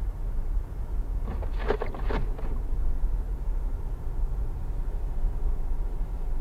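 Steady low rumble of a car driving on the highway, heard from inside the cabin. About a second and a half in, a short higher-pitched sound lasts about a second.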